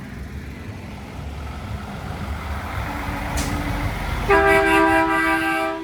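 Truck engine rumble growing louder, then a loud air horn blast of about a second and a half near the end, several steady notes sounding together as a chord.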